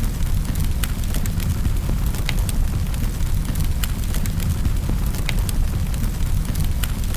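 Wood fire burning in a fireplace: a steady low rumble of flame, with sharp crackles and pops scattered irregularly, several each second.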